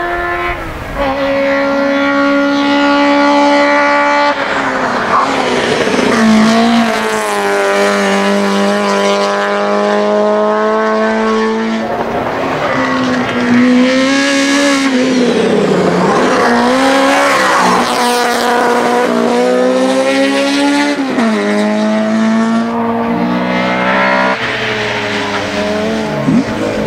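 Hillclimb touring car's racing engine at high revs under hard driving. Its pitch climbs and falls back again and again as it works through the gears and lifts off for bends.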